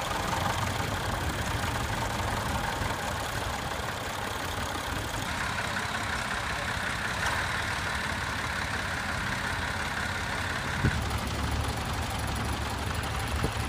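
Vintage tractor engines running steadily. The sound changes abruptly about five and eleven seconds in, with a sharp knock just before the second change.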